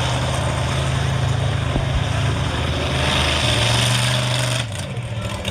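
Monster truck engine running steadily with a deep, droning note that drops away near the end.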